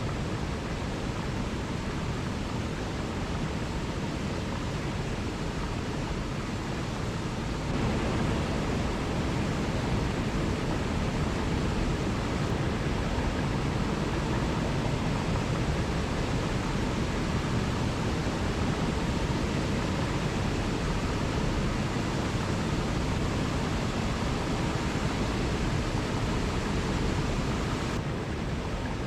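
Waterfall: a steady, even rush of falling water, stepping up in level about eight seconds in and dropping back near the end.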